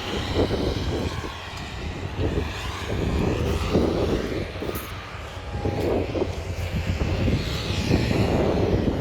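Heavy demolition machinery at work: a large diesel machine's engine running steadily under load, with irregular knocks and crunches of the building being broken up.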